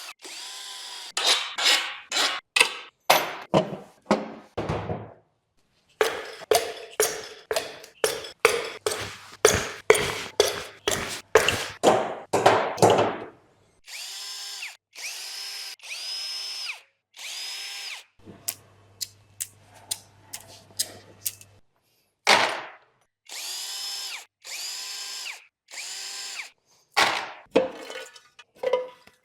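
Handheld power tool whirring in many short bursts, each under a second, with brief pauses between runs, as it spins bolts out of an engine being disassembled.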